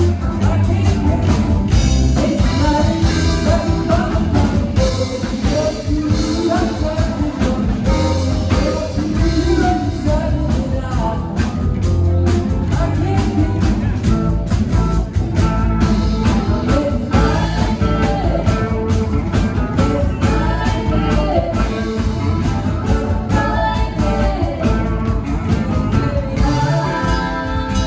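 A rock band playing live, with a drum kit, guitars and singing.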